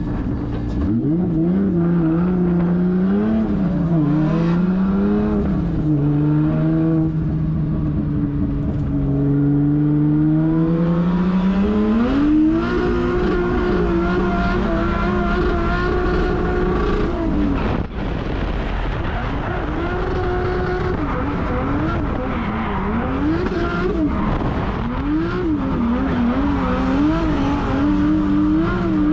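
Toyota 1.5JZ straight-six in a Corolla drift car, revving up and down as the throttle is worked through a drift run. About ten seconds in the revs make one long climb. Near the end the pitch rises and falls quickly, over and over.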